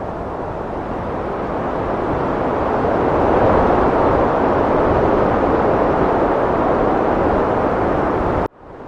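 Heavy wind rushing steadily, swelling about three seconds in. Near the end it cuts out suddenly and then fades back in, as at a loop join.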